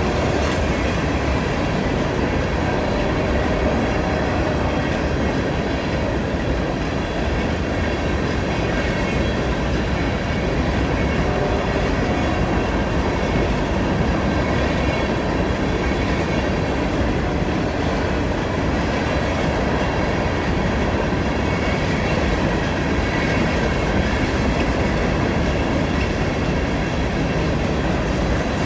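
CN freight train rolling past on a curve, a steady, unbroken noise of steel wheels on the rails.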